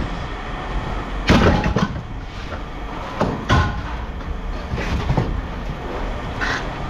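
Pieces of scrap metal clanking and knocking at irregular intervals as spilled scrap is picked up and thrown back, the loudest clank about a second in, over a low steady rumble of machinery.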